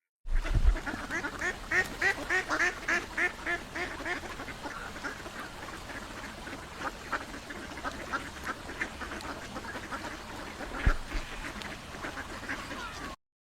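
Ducks quacking in a rapid run of short calls, loudest over the first few seconds, then a softer continuing chatter with one louder quack near the end.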